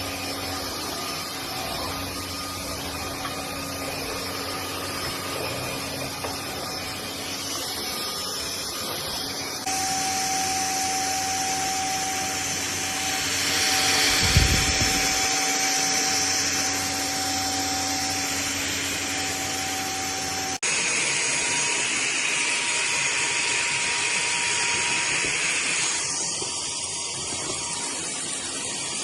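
FDUXUD cordless stick vacuum running steadily, a rush of air with a fixed motor whine. Its tone shifts abruptly about ten and twenty seconds in, and there is a brief low thump about fourteen seconds in.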